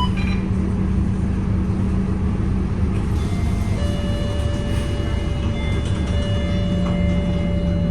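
City bus engine running steadily, heard from inside the bus as a low drone. About four seconds in, a steady high-pitched tone joins it and holds.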